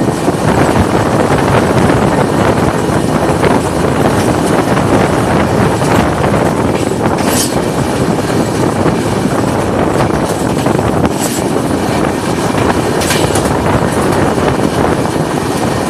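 Passenger train coach running at speed, heard from its open door: a loud, steady rush of wheels on rail mixed with wind, with a few sharp clacks as the wheels run over points.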